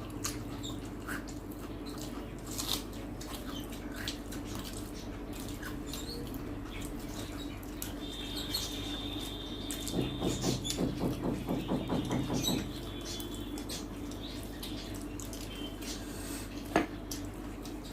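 Eating at a table: chewing and small clicks of food and dishes over a steady low hum. Midway a fast pulsing sound lasts about two and a half seconds, and a single sharp click comes near the end.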